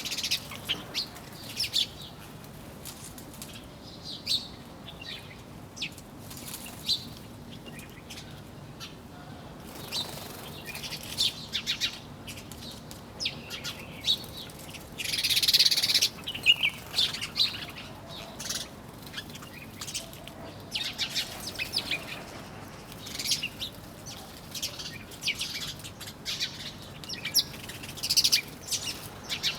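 A group of small birds chirping, with many short high calls coming in quick, uneven runs throughout. About fifteen seconds in there is a louder, harsher sound lasting about a second.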